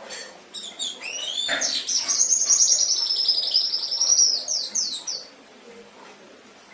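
Domestic canary singing: a few quick rising chirps about half a second in, then a long, fast, high-pitched trill, ending with quick falling notes around five seconds in.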